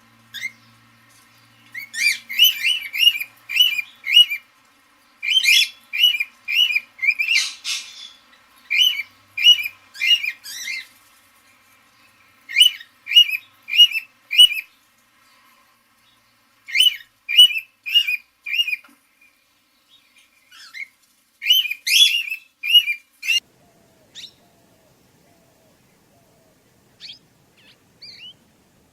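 A parrot chirping in runs of quick, repeated sharp notes, about three a second, with short pauses between runs; the last few seconds hold only a few faint calls.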